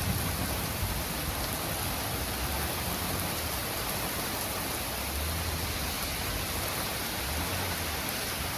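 Steady rain falling in a thunderstorm, an even hiss, with brief low rumbles about five seconds in and again near the end.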